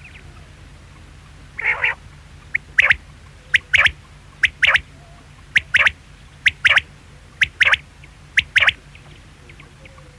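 Quail calling: a harsher rasping call, then short sharp calls in pairs repeated about once a second, over a low steady hum.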